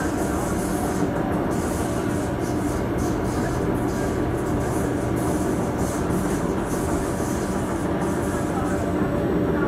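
A Singapore MRT metro train running at speed, heard from inside the carriage: a steady rumble of wheels on rail with a few steady tones under it.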